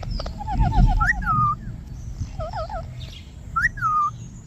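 Pet parrot calling in short chirps and whistles: a quick run of chirps about half a second in, then a few separate rising-and-falling whistled calls. A low rumble sits under the first second.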